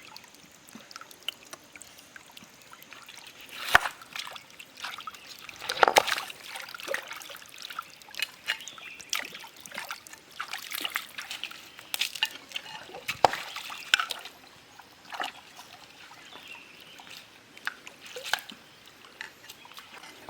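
Water sloshing and splashing in many small, irregular splashes, with a few louder splashes about 4 and 6 seconds in.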